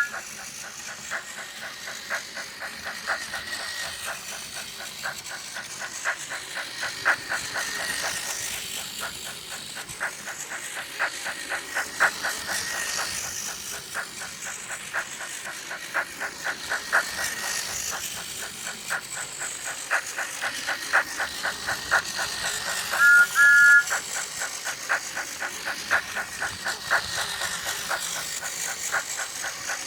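Steam locomotive chuffing in an even, quick rhythm, with hiss. About three quarters of the way through, its whistle gives two short two-note toots.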